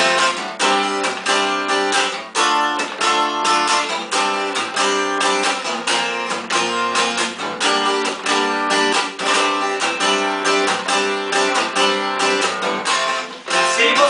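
Instrumental intro of a sertanejo song: an acoustic plucked string instrument picking a quick melodic riff, several notes a second, at a steady level.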